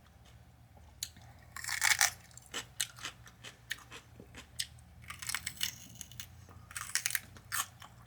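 Close-miked crunching and chewing of a crunchy eggplant parmesan sandwich on a roll, with sharp crackles and mouth clicks. Louder bursts of crunching come about two seconds in and again from about five to nearly eight seconds in.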